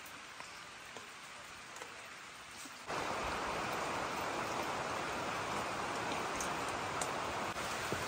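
Steady rain falling, with a few faint ticks. About three seconds in, it jumps suddenly to a louder, fuller hiss of rain that then holds steady.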